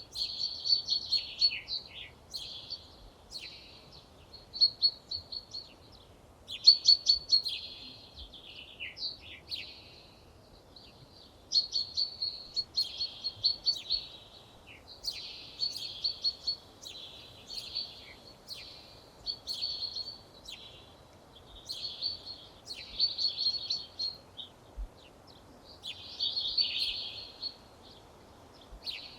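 Songbird singing: short, high, rapid trilled phrases repeated every couple of seconds, some ending in quick falling notes.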